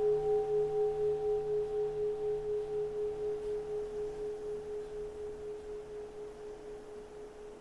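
Keisu, a Japanese Zen temple bowl bell, ringing out after a strike: a pure sustained tone fading slowly, with a steady wavering pulse in its loudness. The higher overtone dies away about halfway through while the main tone lingers.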